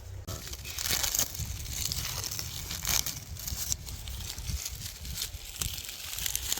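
Dry, papery birch bark being torn off a tree by hand, a rapid run of crackling, crinkling tears.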